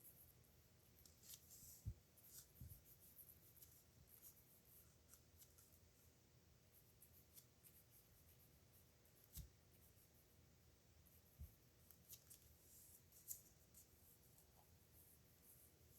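Faint scratching of a metal nib pen dragging across paper in irregular strokes, with a few soft low knocks.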